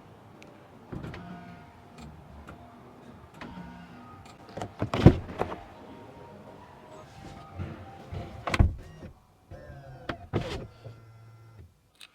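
Small electric motors in a car whirring as powered parts move, with three loud clunks spread through the sound.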